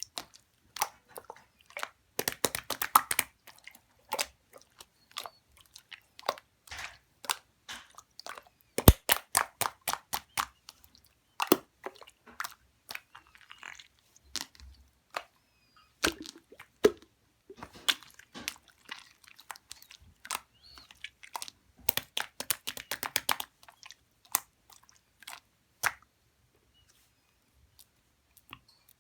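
Shaving-foam marbled slime squeezed and pressed by hand, giving sharp sticky clicks and crackling pops in irregular clusters with short pauses.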